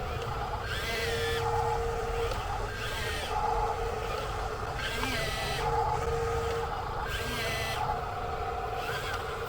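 Whine of the small electric motors and gearboxes of radio-controlled toy trucks, switching on and off with short rises and falls in pitch every one to two seconds over a steady low rumble.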